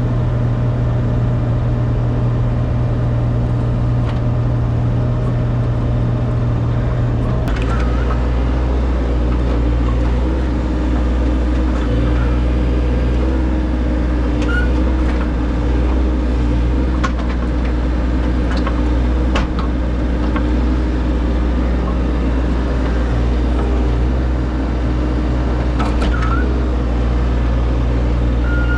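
Heavy-equipment engine running steadily, its note shifting about seven seconds in, with scattered short knocks from the machine at work.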